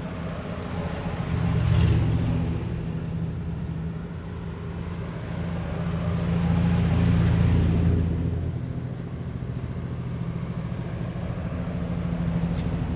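Heavy military vehicles driving past in a column, their engines running with a deep steady rumble that swells twice as vehicles pass close.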